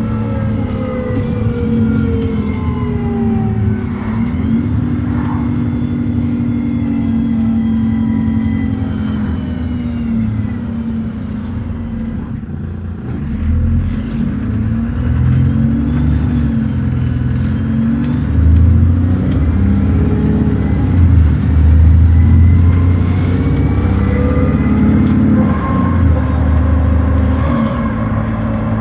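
Dennis Trident ALX400 double-decker bus's diesel engine and automatic gearbox, heard from on board. It is slowing down with falling engine and driveline whine, then about halfway through it kicks down and pulls away, the engine revving up louder through first to third gear.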